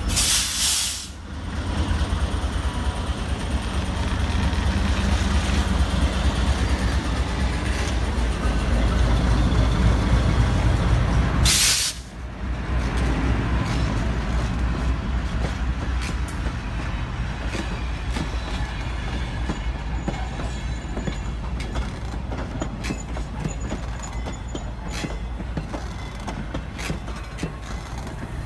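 A Burlington Northern GE U30C diesel locomotive passing close by, its 16-cylinder engine a loud, deep rumble for about the first twelve seconds, with short bursts of hiss near the start and again just before the rumble drops away. Railcars and a wooden caboose then roll past more quietly, their wheels clicking steadily over the rail joints.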